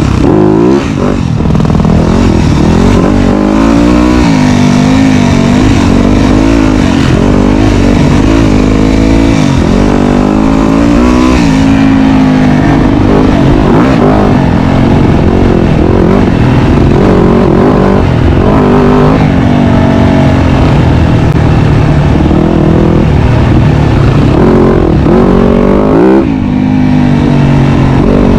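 Dirt bike engine running loud and close, its pitch climbing and dropping over and over as the throttle is opened and eased off.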